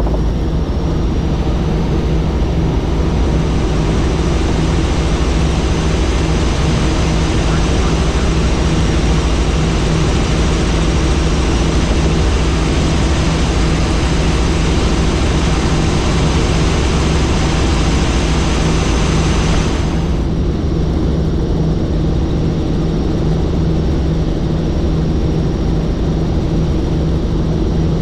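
Helicopter in flight, heard from on board: a steady, loud drone of engine and rotor with a strong low hum under a broad hiss. About twenty seconds in, the upper hiss suddenly drops away while the low drone carries on.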